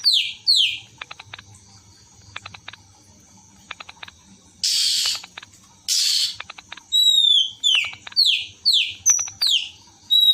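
Oriental magpie-robin (kacer) singing: repeated down-slurred whistles, runs of fast dry clicking notes, and two harsh rasping notes about halfway through.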